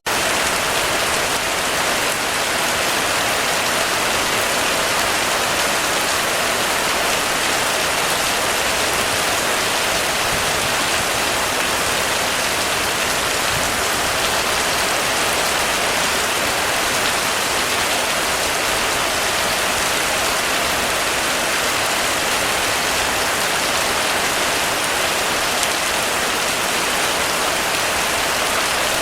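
Heavy rain falling steadily on a roof, a dense even patter with no breaks or single drops standing out.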